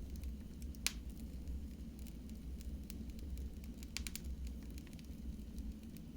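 Wood fire burning in a fireplace: a steady low rumble of flames with scattered crackles and pops, the loudest pop just under a second in and a quick run of crackles about four seconds in.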